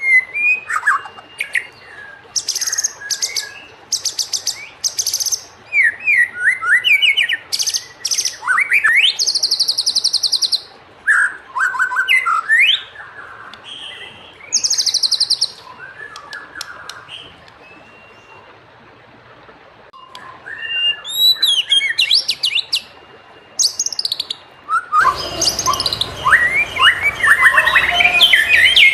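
White-rumped shama singing a fast, varied song of sweeping whistles, chirps and buzzy trills, with brief pauses between phrases. About 25 s in, a denser, louder stretch of song begins over more background hiss.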